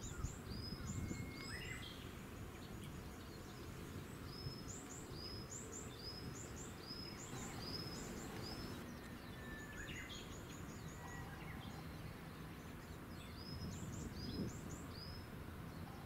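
Small songbirds calling: short, high chirps that drop in pitch, repeated in quick runs of two or three, with a couple of fast ticking trills, over a low steady background rumble.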